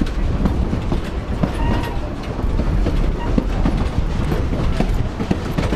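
Narrow-gauge train rolling along the track, heard from an open car: a steady low rumble with irregular clicks and clanks of the wheels over the rail joints.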